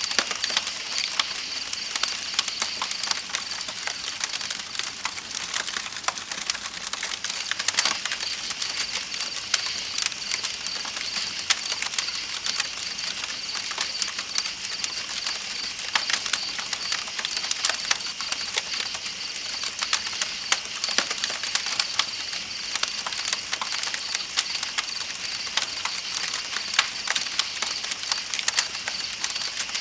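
Campfire crackling with frequent sharp pops over a steady high chorus of night insects and the hiss of flowing river water.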